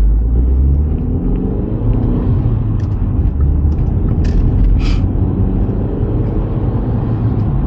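Big-turbo Audi B5's engine and road noise heard from inside the cabin while cruising: a steady low drone whose pitch shifts a little early on. Two brief sharp sounds stand out about four and five seconds in.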